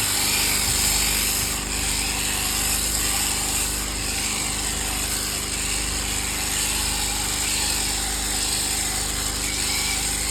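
Electric sheep-shearing clippers running steadily with a continuous high buzz.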